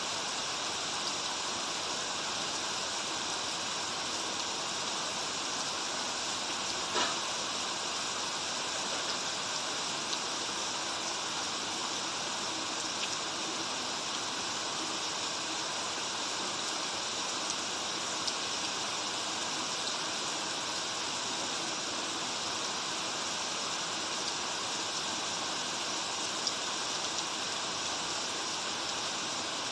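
Steady rain with running water, an even hiss, with a few sharper drop-like taps, the clearest about seven seconds in.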